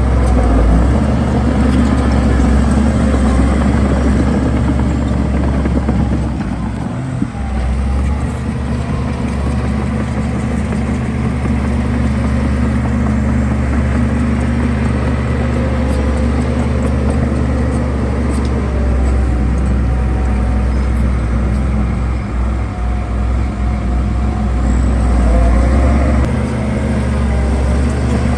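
Heavy diesel engine of an earthmoving machine running steadily under load, a deep low hum, with a short dip in level about seven seconds in.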